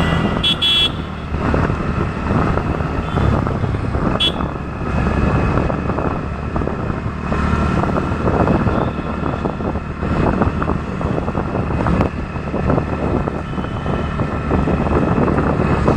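Riding a motor scooter through town traffic: the scooter's engine hum and road and traffic noise run on steadily. Two brief high horn beeps sound, about half a second in and again about four seconds in.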